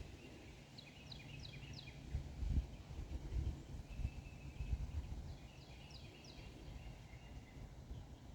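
Small bird singing: two short phrases of quick, high, falling chirp notes, with a thin held note between them. Under it runs a low rumble, with a thump about two and a half seconds in.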